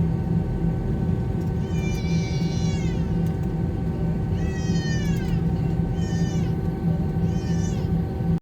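Steady Airbus A321 cabin noise, a loud hum with a few steady tones in it. Four short high-pitched cries that fall in pitch rise above it, about two seconds in and then three more between about four and a half and eight seconds.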